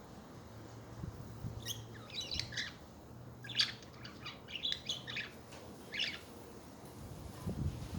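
Budgerigars chattering: clusters of short, high chirps and twitters, ending about six seconds in.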